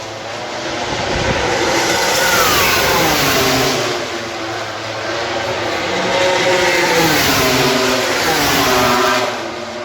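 Racing motorcycles screaming past one after another at high revs, each engine note falling in pitch as the bike goes by. About three pass-bys, the loudest about two seconds in and near the end.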